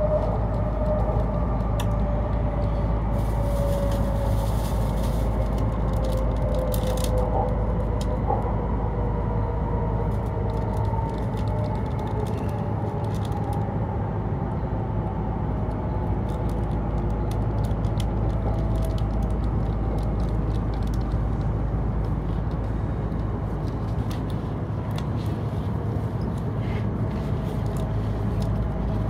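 Inside the passenger cabin of a Hokuriku Shinkansen train slowing into a station: a steady rumble of the running gear with a whine from the drive gliding slowly down in pitch as the train brakes.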